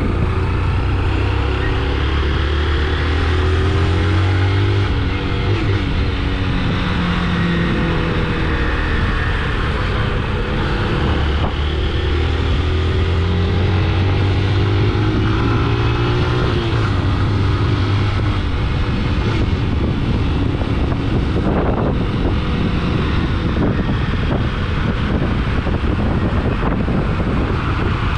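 Motorcycle engine running under way, its pitch rising and falling with throttle and gear changes, with wind rushing over the microphone.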